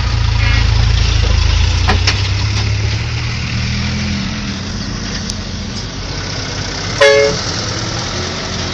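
A truck engine running loud and low, fading after the first few seconds as it moves off. A short horn toot sounds about seven seconds in.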